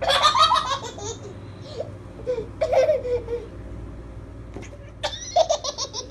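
A baby laughing in bursts of quick giggles: a long burst at the start, a shorter one about three seconds in, and another near the end.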